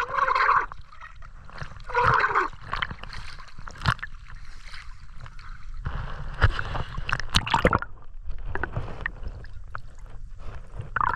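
Sea water sloshing and gurgling, with scattered knocks and splashes.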